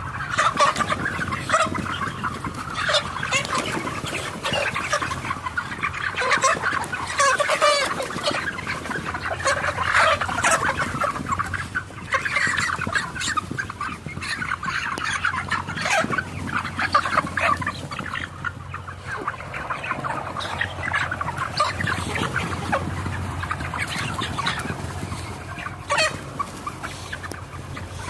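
A large flock of chickens clucking and calling all at once, a dense unbroken chatter, over a steady low hum.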